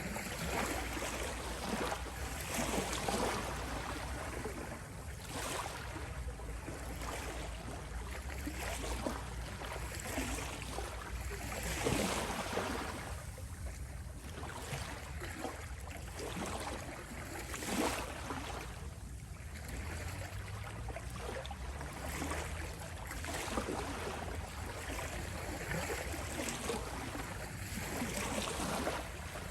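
Gentle sea waves washing onto a beach, each one swelling and fading every few seconds over a steady low rumble.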